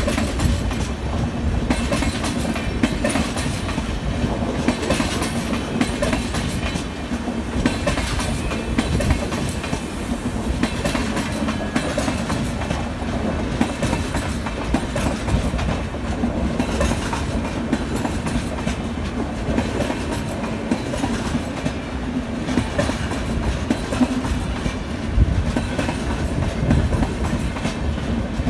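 Indian Railways express passenger coaches rolling steadily past close by: a continuous rumble of steel wheels on rail, with irregular clickety-clack clicks as the wheels cross rail joints.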